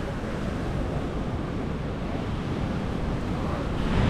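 Wind rushing across the microphone: a steady noise heavy in the low end, swelling a little near the end.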